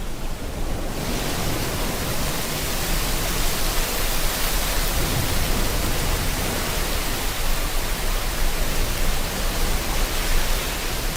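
Steady heavy rain, a dense hiss that fills in about a second in, over the low rush of sea waves.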